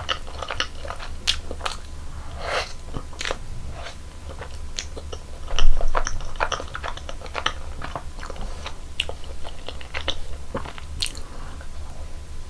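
Close-miked eating of cream-filled donuts: irregular bites and chewing, with many small wet clicks and smacks. One louder bite about halfway through.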